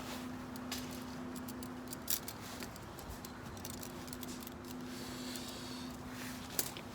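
Small clicks and light rattles of gear being handled, with two sharper clicks about two seconds in and near the end, over a steady low hum.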